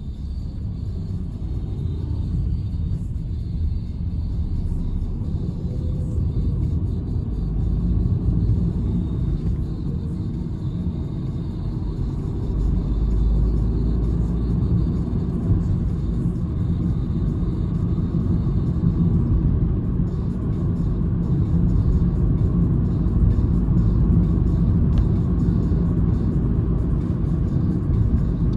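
In-cabin drive rumble of a Citroen C-Elysee's 1.2 PureTech EB2 three-cylinder engine and tyres on the road, steady and low, growing gradually louder over the stretch.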